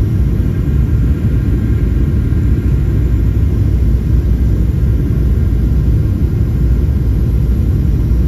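Aeroplane in flight heard from inside the cabin: a steady, deep engine and airflow drone.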